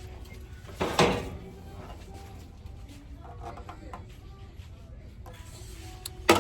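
Pans being handled on a store shelf: a sharp clatter about a second in and another sharp knock near the end, over a steady low background rumble with faint voices.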